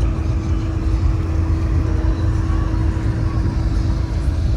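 An engine running steadily: a low rumble under a constant hum.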